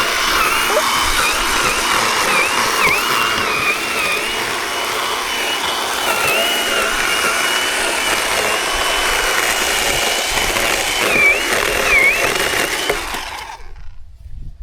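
Zhipu 48V cordless electric chainsaw running and cutting wood, its high motor whine dipping briefly again and again as the chain bogs under load, then cutting off suddenly near the end.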